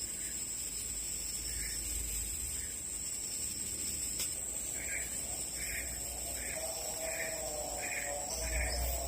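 Steady high-pitched drone of forest insects. About halfway through, a short chirping call starts, repeating roughly every half second, and a lower wavering call joins it near the end.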